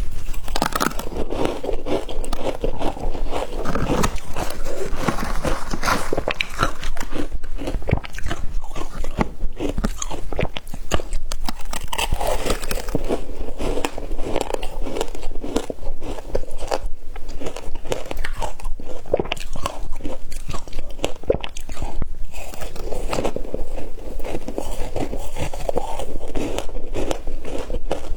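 Close-up crunching and chewing of shaved ice in the mouth, a dense, continuous crackle of crisp bites.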